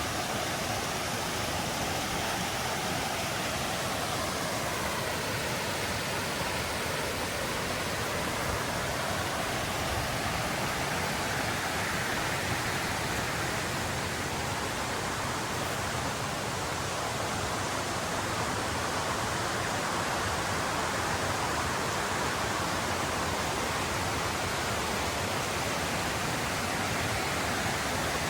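Mountain river flowing, a steady rush of water that grows slightly louder in the second half.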